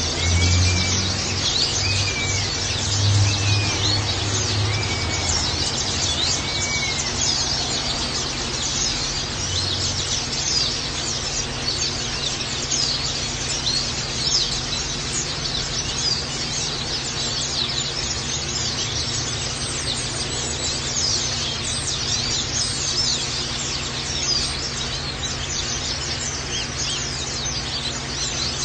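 Many small birds, white-eyes (pleci), chirping continuously in rapid high notes over a steady rush of water. In the first few seconds a separate arched whistle repeats about six times, with a low hum underneath.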